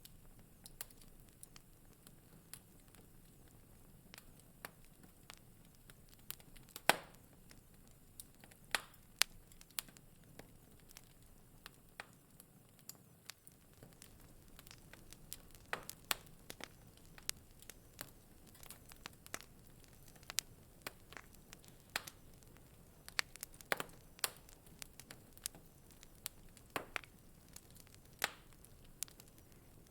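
Wood fire burning in a fireplace: a faint low hiss with irregular crackles and sharp pops scattered throughout, the loudest pop about seven seconds in.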